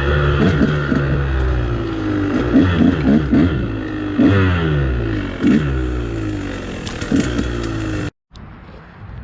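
KTM dirt bike engine revving up and down as it is ridden over rough ground, its pitch rising and falling again and again, with clattering knocks mixed in. It cuts off abruptly about eight seconds in, leaving only quieter background noise.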